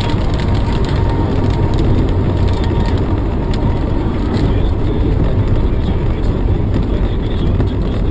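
Steady rumble of a car driving along: engine and road noise with a few faint ticks.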